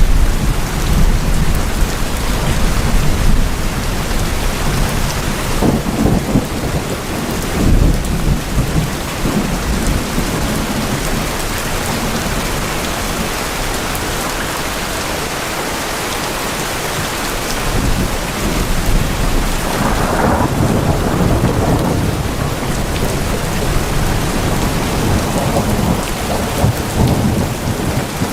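Heavy rain on tin roofs, a dense steady patter, with thunder rumbling low beneath it and swelling twice, about six seconds in and again about twenty seconds in.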